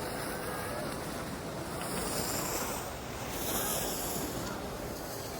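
Steady rushing noise of wind buffeting the microphone while gliding down a ski slope, mixed with the hiss of sliding over the snow.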